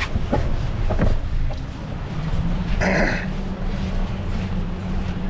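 Wind rumbling on the microphone of a moving bicycle. A steady low hum comes in about two seconds in, and a short high squeak sounds about three seconds in.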